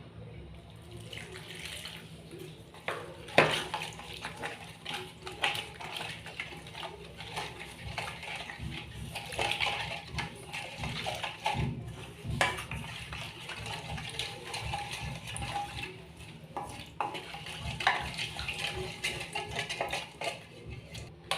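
Kitchen utensils clinking and knocking against dishes, with scattered sharp knocks over a steady, watery rushing noise.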